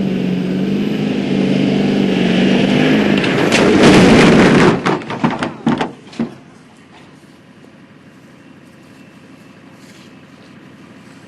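Diesel pickup truck's engine running steadily, then a loud rush of noise about three seconds in, followed by a string of sharp bangs and clatters as the truck lands hard from a jump. After that the engine sound is gone and only faint background noise remains.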